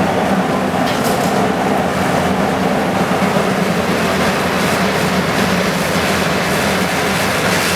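Bulldozer running steadily, a loud and unbroken heavy engine drone.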